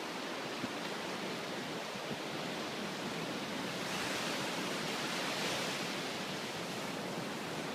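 Steady rushing noise of a storm, wind and water blended, swelling slightly about halfway through.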